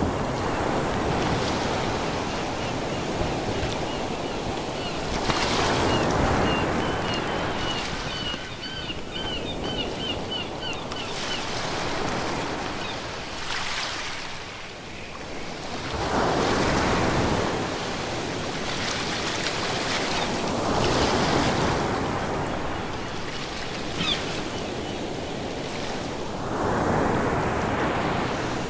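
Ocean waves breaking and washing ashore, surging and easing every few seconds. A run of quick, high chirps comes about a quarter of the way in.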